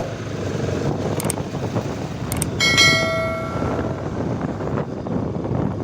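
Motorcycle riding noise, engine and wind rushing steadily, with a vehicle horn sounding once for about a second and a half near the middle.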